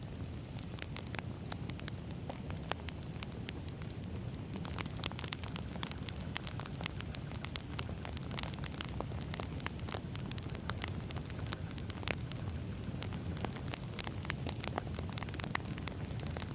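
Wood fire burning: a steady low rumble of flames with many sharp, irregular crackles and pops of firewood.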